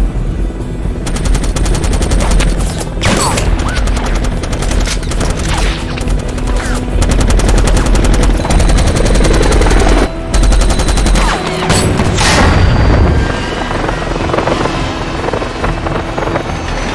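Film battle sound mix: long bursts of rapid automatic gunfire starting about a second in, breaking off briefly past the middle and then resuming, with a music score beneath.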